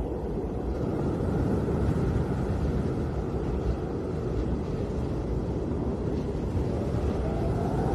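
Snowstorm wind blowing steadily, a dense low noise with no separate events. A faint rising whistle of wind comes in near the end.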